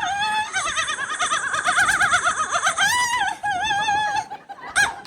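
A person's voice imitating a seagull's screech: a long, high, wavering call with a fast warble in the middle. It breaks off about four seconds in, and one short squawk follows near the end.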